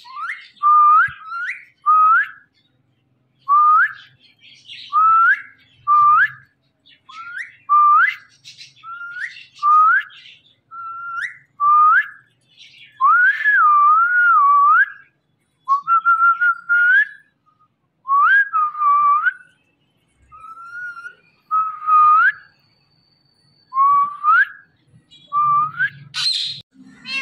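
Indian ringneck parakeet whistling a long run of short rising whistles, about one a second, with a few longer notes that waver up and down.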